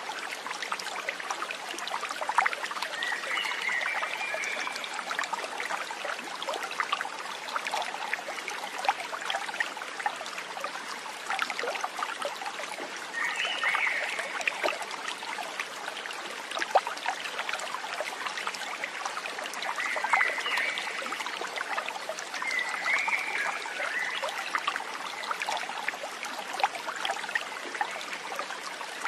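Shallow stream trickling and babbling over stones, steady throughout, with four short animal chirps rising above it.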